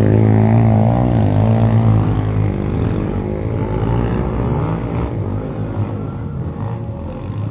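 Motocross dirt bike engines revving up and down, loudest at first and fading over the last few seconds.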